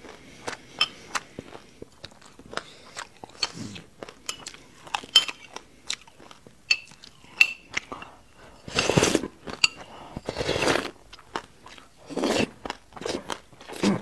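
Close-miked chewing of sesame seeds with passion fruit: a run of small, sharp crunches. A little past the middle come two longer slurps from the bowl's rim, and another near the end.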